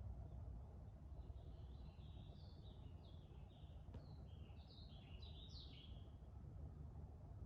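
A songbird singing faintly, a quick run of short high twittering notes through the middle few seconds, over a steady low rumble of background noise.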